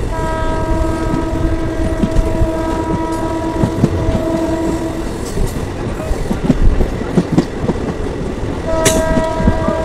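Passenger train's horn sounding one long steady blast of about five seconds, then sounding again near the end, over the running noise of the train at speed: a low rumble and the clatter of wheels over rail joints.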